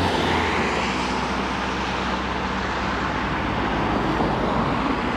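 Steady rumble and road noise of a moving vehicle, with a low, even hum underneath.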